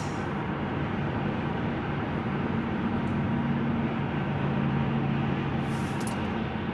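Steady road and engine noise inside a moving car's cabin: a constant rumbling hiss with a low hum.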